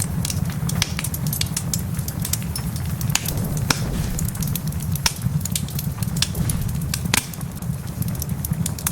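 Wood fire crackling, with frequent sharp pops at uneven intervals, over a steady low rumble.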